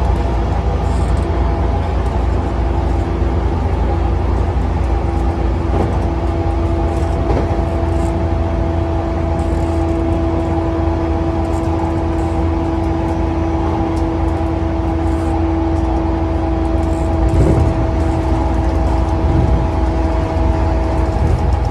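Running sound inside a JR East E235-1000 series electric train at speed: a steady low rumble of wheels on rail with a steady whine over it. A couple of louder knocks come near the end.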